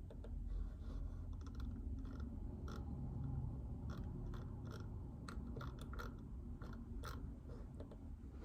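Quiet typing on a JJK84 mechanical keyboard with Outemu Silent Peach linear switches: soft, irregular keystrokes, a few a second, over a low steady hum.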